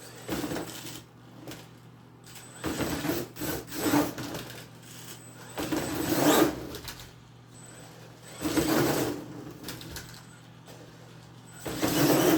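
Brushless electric RC monster truck driven in about five short bursts of throttle, its motor and drivetrain whirring with each burst.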